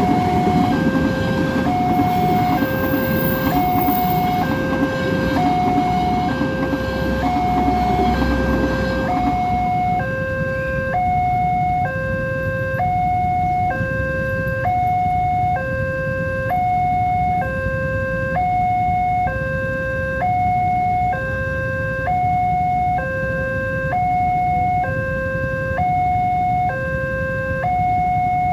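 Railway level-crossing warning alarm sounding a repeating two-tone signal, switching between a higher and a lower tone a little under once a second. A train rumbles past under it and stops being heard about nine seconds in, while the alarm keeps sounding.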